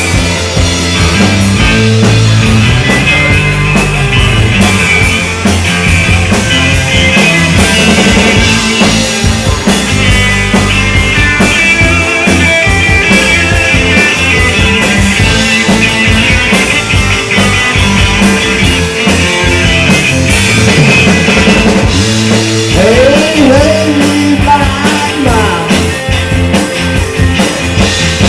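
Live rock band playing loud: electric guitars over a steady drum-kit beat.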